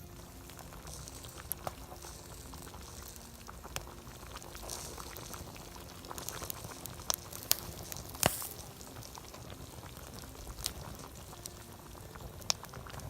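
Campfire crackling: a steady hiss with scattered sharp pops, a few louder snaps near the middle.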